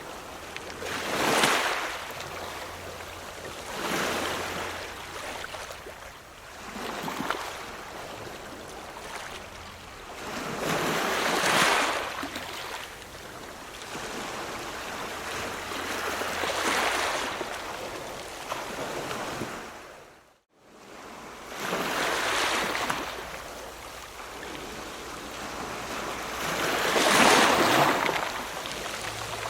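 Ocean waves breaking, the surf swelling and washing back every few seconds, about seven surges in all. There is a brief gap of near silence about two-thirds of the way through.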